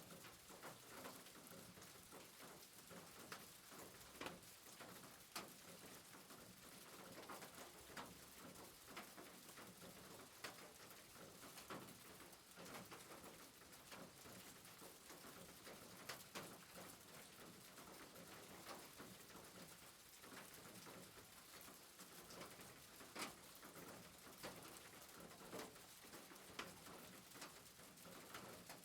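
Faint soft rain: an even hiss with scattered, irregular ticks of drops.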